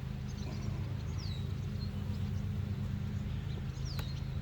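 Honey bees humming steadily from an opened hive as a frame is lifted out, with a bird's short falling whistle twice, about a second in and near the end.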